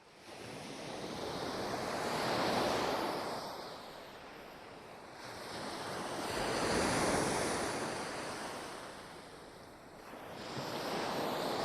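Sea waves washing ashore, fading in at the start, then surging and ebbing in slow swells, two big swells about four to five seconds apart and another building near the end.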